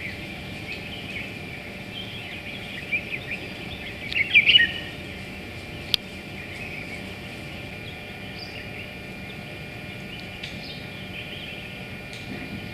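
Birds chirping and calling over a steady high-pitched background tone, with a louder flurry of calls about four seconds in and a single sharp click around six seconds.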